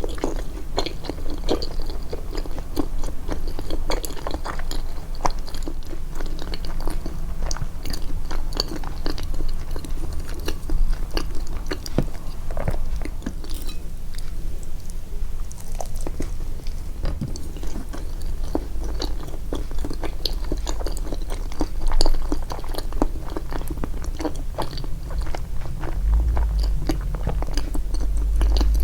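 Close-miked chewing and biting of food, a dense run of wet mouth clicks and smacks with a slight crunch, with a short pause about halfway through.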